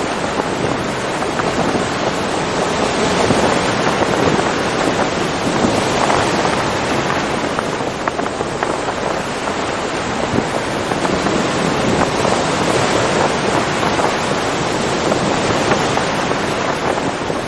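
Ocean surf washing continuously, a steady rush of breaking water that swells and eases slowly.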